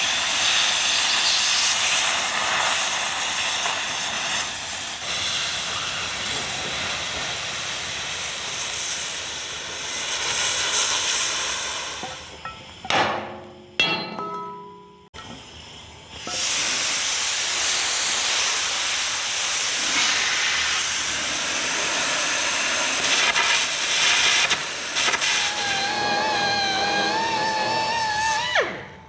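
Air carbon arc gouging on steel plate: a loud, steady hiss of compressed-air blast and arc. It stops for a few seconds midway, with a couple of short spurts, then starts again. A wavering whistle rides on it near the end before it cuts off suddenly.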